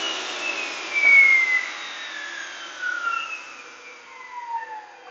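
Power tool motor coasting down after being switched off, its whine falling slowly in pitch and fading.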